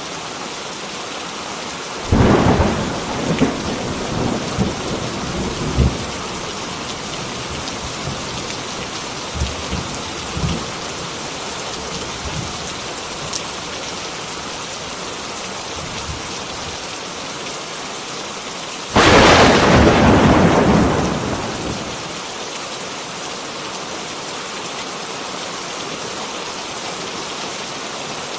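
Heavy rain falling steadily, with thunder. A crackling rumble comes about two seconds in and rolls for a few seconds. A louder, sudden clap comes about two-thirds of the way through and dies away over about three seconds.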